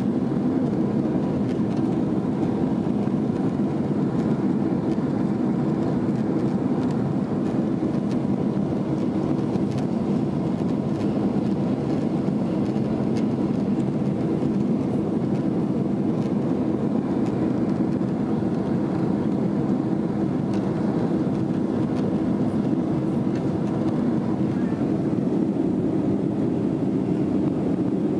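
Steady low cabin roar of a Boeing 767's jet engines and airflow as heard inside the cabin during the climb after takeoff, holding even throughout.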